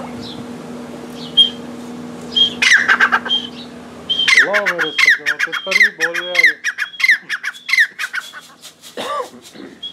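A caged bird calling loudly, a rhythmic run of sharp squawks that fall in pitch, about two a second, for several seconds. Lower, arching calls join in partway through.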